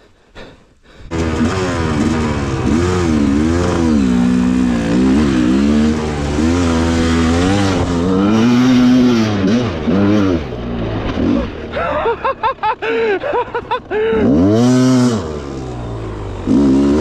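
Enduro dirt bike engine revving hard, cutting in abruptly about a second in, its pitch rising and falling over and over as the throttle is worked. About two-thirds through it breaks into short, choppy throttle blips, then one big rev swells and falls.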